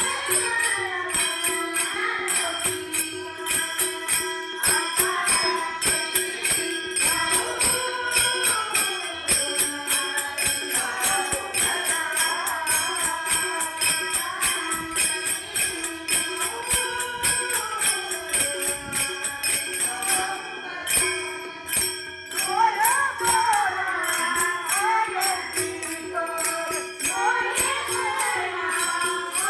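A women's bhajan group singing a Marathi devotional song over a sustained drone, with a steady percussion beat throughout.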